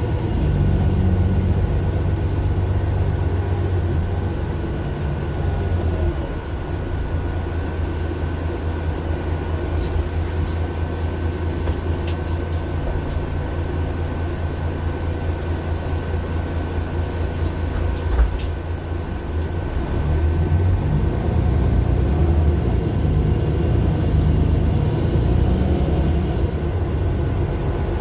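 Mercedes-Benz Citaro LE city bus's OM 457 hLA six-cylinder diesel engine running under way with a deep drone that eases about six seconds in and builds again near twenty seconds in. A thin steady whine runs through it, and there is a single knock about eighteen seconds in.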